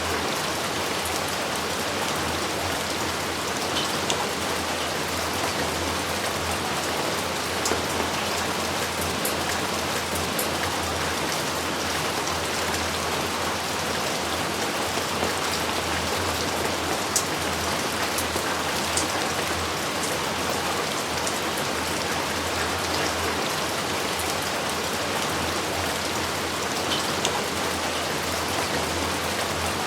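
Steady heavy rain falling, a dense even hiss with scattered sharper drop hits on surfaces close by.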